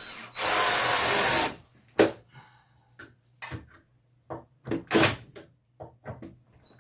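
Power drill driving a screw into wood in one burst of about a second, followed by scattered knocks and clunks.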